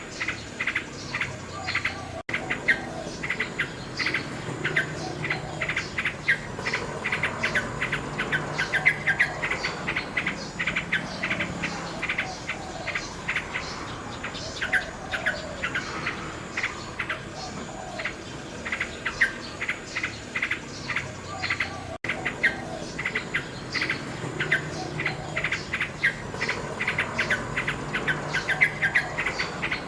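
Common nightingale singing: fast runs of rapidly repeated short notes and trills, over a steady lower chorus of calls. The sound drops out for an instant twice, about two seconds in and again near the 22-second mark.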